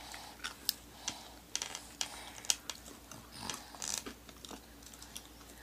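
A baby chewing and smacking its lips with small, irregular clicks while it eats.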